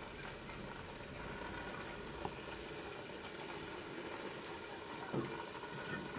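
Low, steady bubbling of liquid, as in a pot simmering, with a few soft knocks about two seconds in, five seconds in and at the end.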